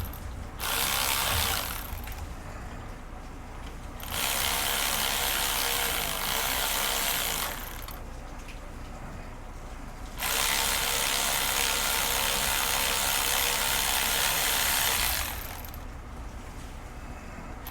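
Stainless worm-gear hose clamp being tightened by a cordless driver, the screw clicking along the band in three runs, the last about five seconds long. The clamp is pinching heat wrap onto an exhaust.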